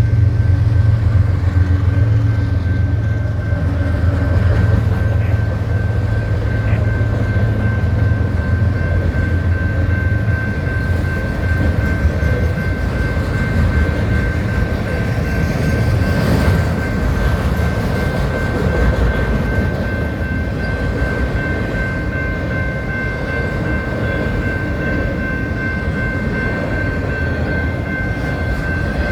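Freight train passing close by. The lead diesel locomotive's heavy low rumble dominates the first ten seconds or so, then gives way to the steady rolling noise of the freight cars. A thin high tone is held steady over it.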